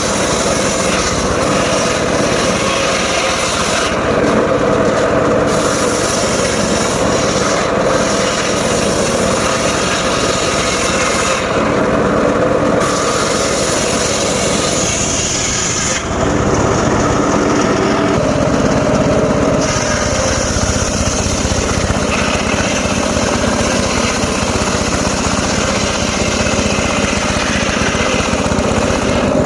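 Engine-driven mobile circular sawmill running steadily, its blade cutting through logs, with the high hiss of the cut dropping away briefly a few times and returning.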